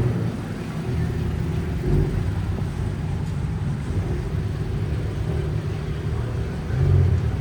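A car engine running with a low, steady rumble that swells briefly about two seconds in and again near the end.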